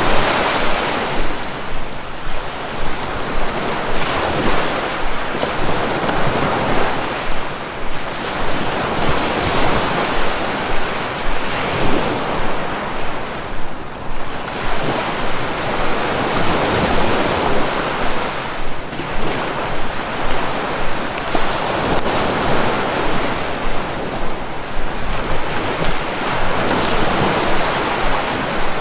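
Sea waves breaking and washing on the shore, surging and receding every few seconds, with wind buffeting the microphone.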